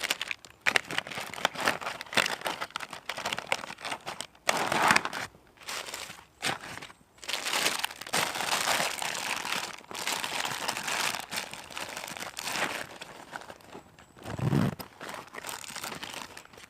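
Bags and food packaging crinkling and rustling in irregular bursts as camping kit is handled and packed away, with small handling knocks.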